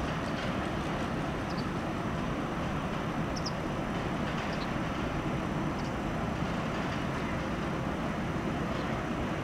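Steady, even rumble and hiss of an ÖBB Railjet train at a station, with a few faint short high chirps scattered through.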